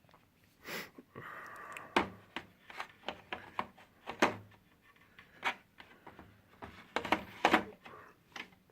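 Proxxon hand tools being handled: about a dozen irregular clicks and knocks of metal parts set down and picked up, with a brief rubbing scrape a little over a second in.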